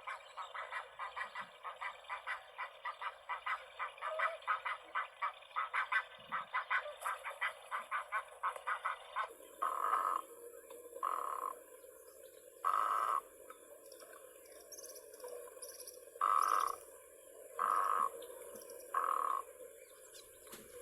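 Frogs calling: a fast pulsing chorus of about five pulses a second, then from about nine seconds in six separate short croaks.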